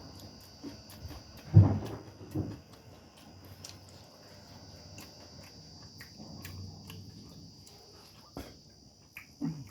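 Close-up eating sounds of a meal eaten by hand: chewing and mouth noises with small clicks, and a louder low thump or crunch about one and a half seconds in, another just after two seconds. A faint steady high whine sits underneath.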